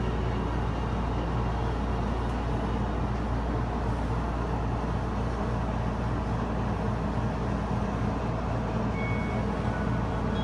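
Steady low hum and rumble inside a Ferris wheel gondola, even in level throughout.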